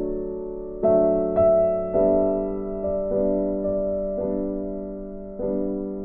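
Background music: slow, gentle piano chords, each struck and left to fade before the next.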